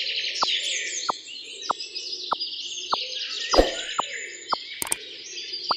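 Birds chirping and twittering continuously, with a short downward-gliding tone repeating about every two-thirds of a second.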